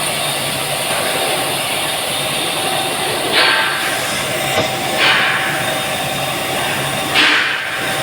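Steel pipe mill machinery running steadily, with short hissing bursts three times, about every two seconds.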